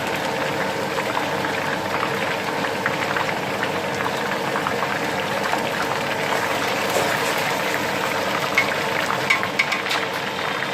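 Flour-marinated chicken pieces frying in hot oil: a steady, dense sizzle and crackle, with a few sharper clicks near the end.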